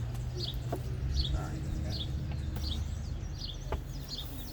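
A bird chirping over and over, a short falling chirp about once a second, over a steady low rumble with a couple of faint clicks.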